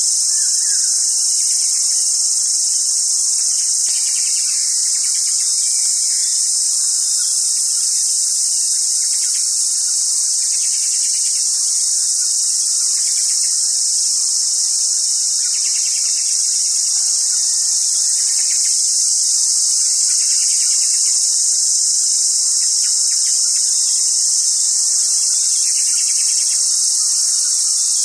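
A loud, steady, high-pitched insect chorus, with fainter repeated calls of a common hawk cuckoo coming through beneath it every few seconds.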